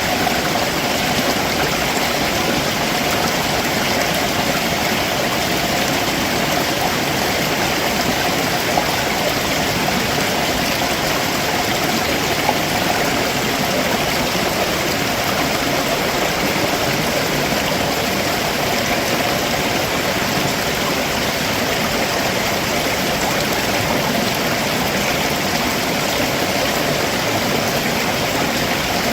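Stream water running over rocks below a waterfall, a steady, unbroken rushing.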